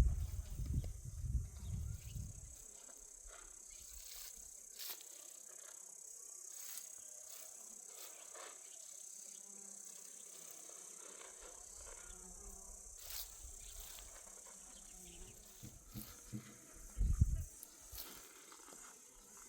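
Steady, high-pitched insect chorus in the background, with scattered small clicks and rustles. A low rumble fills the first couple of seconds, and there is a short low thump about seventeen seconds in.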